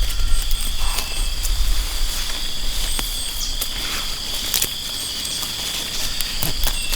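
A steady, high-pitched insect-like buzz over a low rumble, with scattered sharp clicks.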